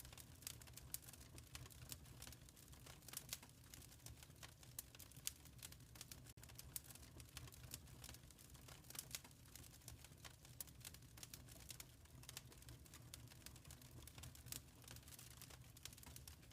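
Wood fire crackling quietly: irregular sharp pops and snaps over a soft low rumble of the flames.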